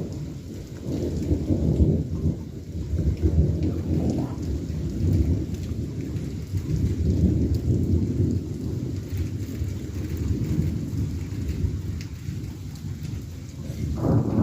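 Thunder rumbling and rolling on in waves through steady rain from a thunderstorm. A new, sharper burst of thunder starts right at the end.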